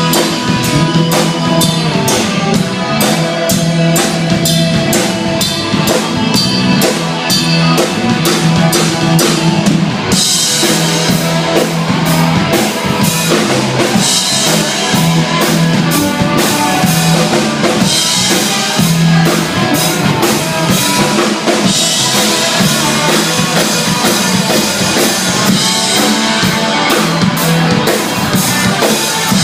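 Live band playing a driving one-chord blues-rock jam: a drum kit keeps a fast, even beat over a repeating low riff. Cymbals come in louder about a third of the way through.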